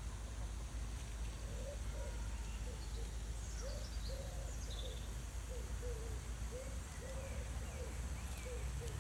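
Peafowl giving a series of about a dozen short, soft hooting notes, one or two a second, with high chirps of small birds about three to five seconds in over a steady low rumble.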